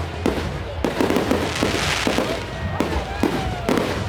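Fireworks going off nearby: a rapid, irregular string of sharp bangs and crackles.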